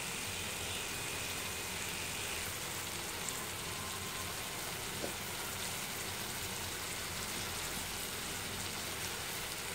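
Chopped onions and tomatoes frying in oil in a kadai, a steady soft sizzle with the odd faint tick.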